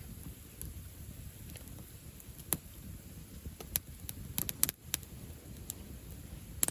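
Wood campfire crackling: irregular sharp pops and snaps, with a quick cluster of them about four and a half seconds in, over a low steady rumble.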